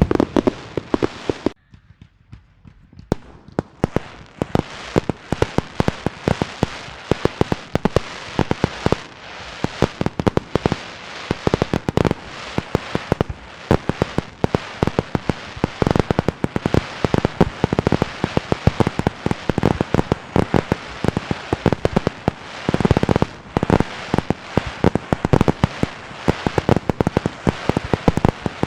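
Fireworks and firecrackers going off in rapid, irregular succession: many sharp bangs and crackling pops close together. A brief lull comes about two seconds in before the barrage picks up again.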